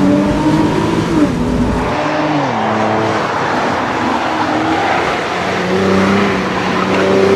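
Mercedes-Benz SLK (R172) roadster's engine running under way, its note rising, then dropping in two steps about one and two seconds in, and building again over the last couple of seconds.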